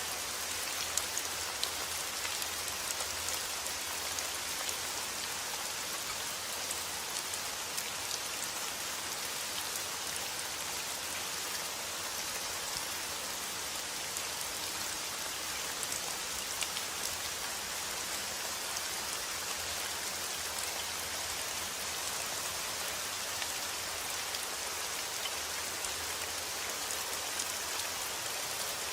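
Steady rainfall: an even hiss of rain with many small drop ticks scattered through it, without thunder.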